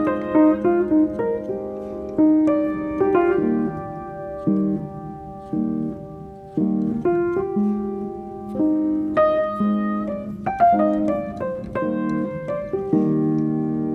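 Piano music: chords and a melody played in separate struck notes, each note starting sharply and then dying away.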